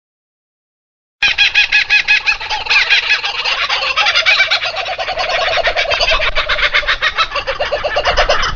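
Birds calling in a dense, rapid chatter, starting about a second in after a moment of silence.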